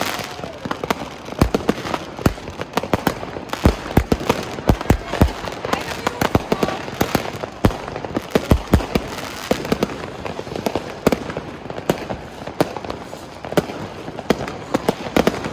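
Many fireworks going off at once: sharp bangs at irregular intervals, often several a second, over a steady background din.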